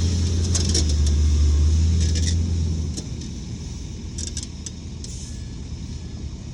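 Heavy diesel earthmoving machinery running: a deep engine drone eases off about three seconds in, with short metallic clinks and squeals scattered throughout.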